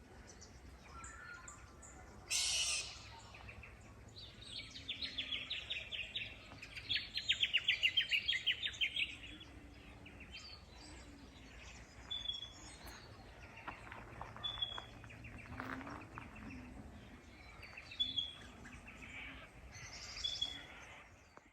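Garden birds singing and calling: a rapid trill from about four to nine seconds in, then short high chirps repeated through the rest. A brief loud burst of noise comes a couple of seconds in.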